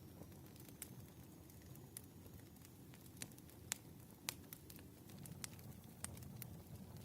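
Wood fire crackling faintly: scattered, irregular sharp pops and snaps over a low, steady rumble, with two louder snaps near the middle.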